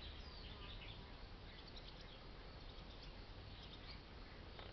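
Faint outdoor ambience with scattered short, high bird chirps over a low steady hum.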